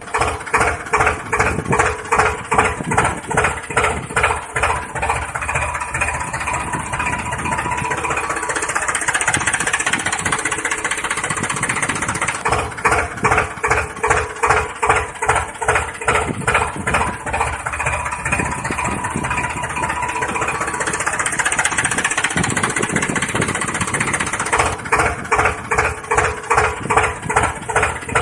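Small engine running with a regular chugging pulse, about two to three beats a second, in the manner of a tractor engine. The pulsing eases off in the middle and comes back strongly near the end.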